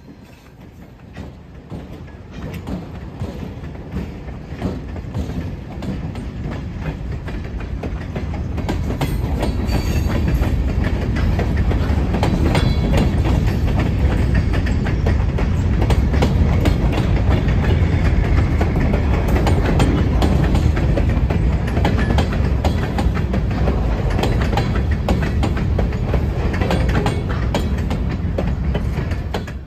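Freight train of covered hopper cars rolling past close by, steel wheels clacking over rail joints. It grows louder over the first ten seconds or so, then holds steady.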